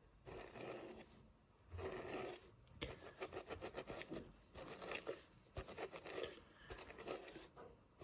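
Massage hairbrush drawn through hair in repeated strokes, about one a second, its bristles scraping; a fast run of small ticks comes about three seconds in.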